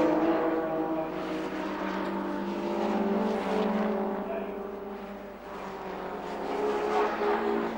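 Racing saloon car engines running at high revs as the cars circulate past; the sound fades about five seconds in, then builds again as more cars approach.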